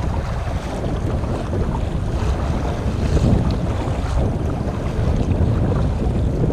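Strong wind buffeting the microphone in a windstorm, a steady low rumbling noise.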